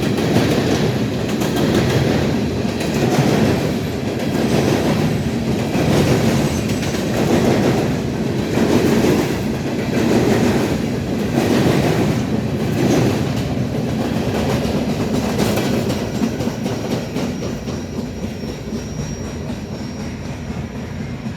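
Empty CSX coal hopper cars rolling past, their wheels clattering over rail joints in an even rhythm of about one pulse every second and a half. The clatter fades over the last few seconds as the end of the train goes by.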